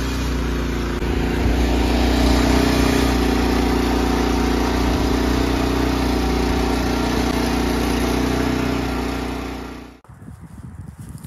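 Gasoline engine of the vehicle towing the chicken tractor, running steadily under load. It gets a little louder about a second in and cuts off abruptly near the end, giving way to faint irregular knocks.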